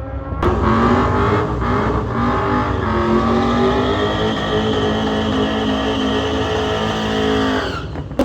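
Car engine revving hard: the pitch climbs with brief breaks about one and two seconds in, then holds high for several seconds before cutting off near the end.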